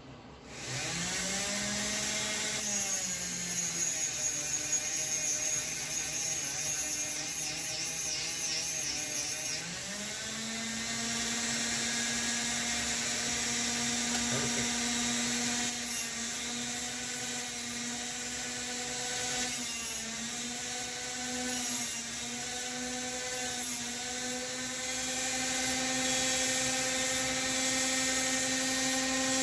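Small high-speed rotary grinding tool running, grinding model locomotive axles down to length. It starts up about half a second in, changes speed about ten seconds in, and its whine dips in pitch a few times as it bears on the work.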